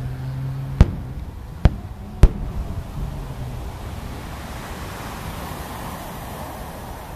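Aerial firework shells bursting: three sharp booms in quick succession about a second in, followed by a low, continuing rumble of distant reports and echo.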